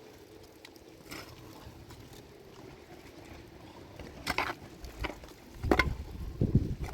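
Faint, steady background noise, then several sharp knocks and thumps in the second half, the loudest near the end.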